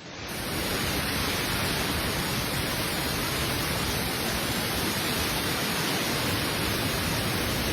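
A steady, even rushing noise with no distinct strokes or tones. It fades in at the start and fades out near the end.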